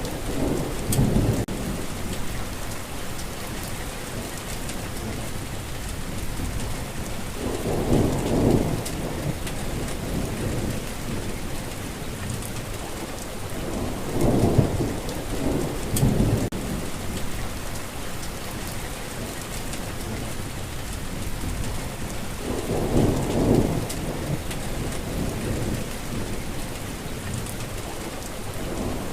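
Steady rain falling, with low rumbles of thunder rolling in about every seven seconds, four times.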